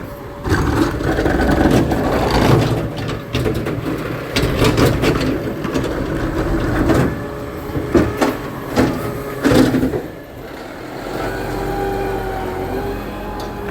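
Garbage truck at work: for about ten seconds a run of clattering bangs and knocks sounds over the running engine. Then the clatter stops and a steady engine hum with a whine is left, its pitch rising slightly near the end.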